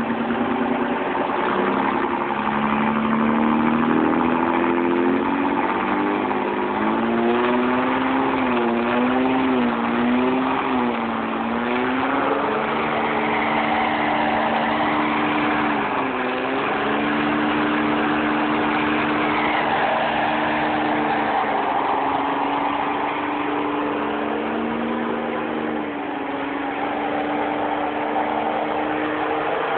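Car engine held at high revs during a burnout, its pitch wavering for the first dozen seconds and then holding steady, over a dense rushing noise from the spinning tyres.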